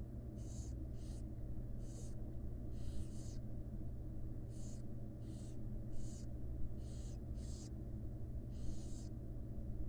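Barn owl chicks giving their hissing begging calls: short, high, rasping hisses about once a second, heard over a steady low hum.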